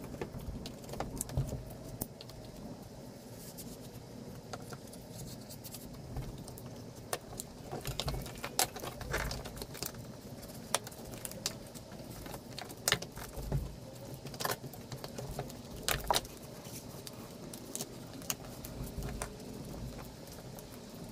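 Foam boat-flooring sheet being cut along a marked line: many small irregular clicks, scratches and crackles as the blade works through the foam and the sheet is handled, over a low steady hum.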